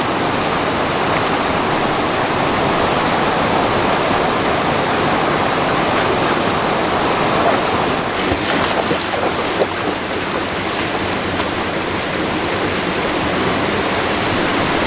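Mountain stream water rushing over rocks, a steady, loud rush.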